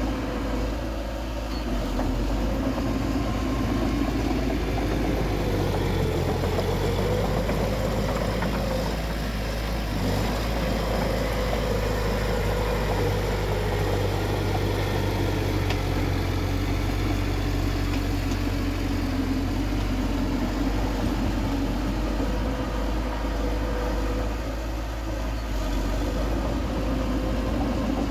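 A bulldozer's diesel engine runs steadily with a deep rumble, its pitch drifting up and down slightly as the load changes.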